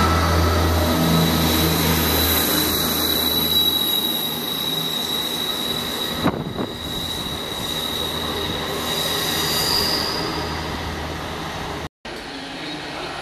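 Diesel multiple-unit trains moving through a station: a low diesel engine drone with a high, steady squeal of wheels on the rails. A Class 158 DMU then pulls away down the line. The sound cuts out briefly near the end.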